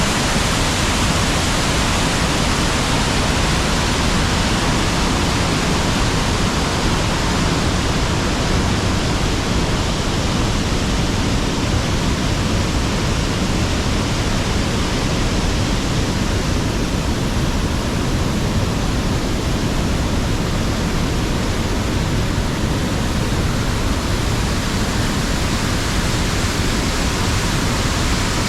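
Waterfall on a small river, water rushing steadily and evenly.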